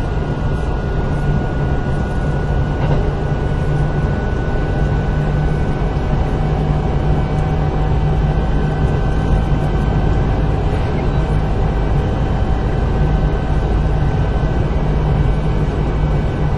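Kintetsu 8000 series electric train heard inside car 8079 while running: a steady rumble of wheels on rail with a thin, even whine above it.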